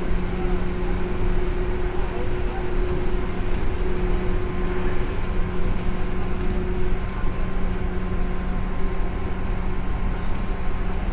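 Inside a Seibu 2000 series electric train running: a steady rumble of the wheels on the rails, with a steady low hum from the running gear that does not rise or fall in pitch.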